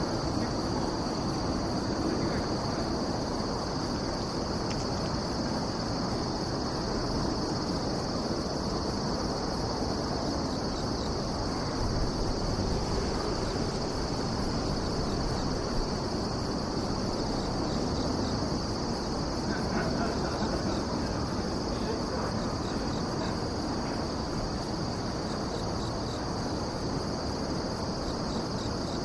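Insects singing continuously: one steady high trill with a faster, evenly pulsed chirping above it, over a steady low background rumble.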